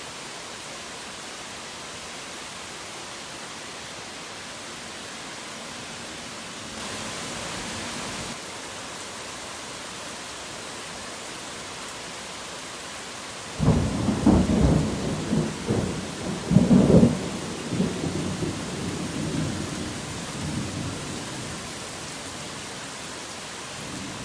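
Steady heavy rain, with a thunderclap about halfway through that starts suddenly, rumbles in several peaks and rolls away over about seven seconds.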